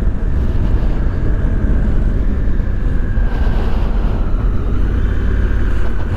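2017 Honda Africa Twin's parallel-twin engine running steadily, with wind buffeting the helmet-mounted microphone.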